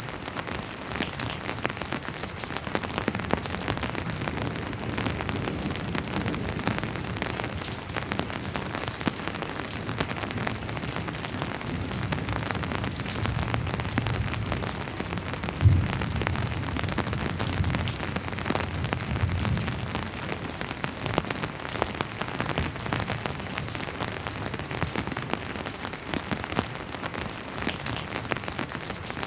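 Steady rain falling, with many individual drops pattering through a constant hiss. About halfway through, a low rumble of distant thunder swells for several seconds, with one sudden louder thump in it.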